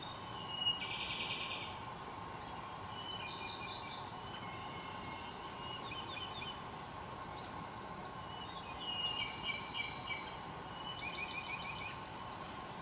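Wild songbirds singing: a series of short, high chirping phrases and quick trills, several of them a few seconds apart, over a steady background hum.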